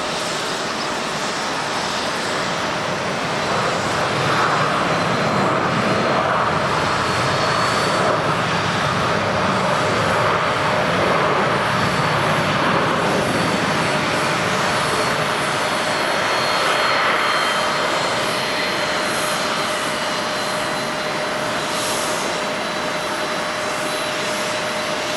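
Jet airliner engines passing, a steady rushing roar with a fixed whine, growing louder for a few seconds and then easing off.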